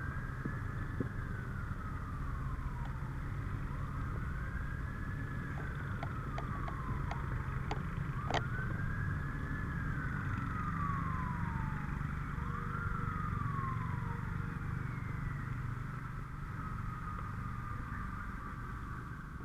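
Fire truck siren sounding a slow wail, rising and falling in pitch about every four seconds over the steady rumble of the truck's engine and road noise, with a few sharp clicks about halfway through.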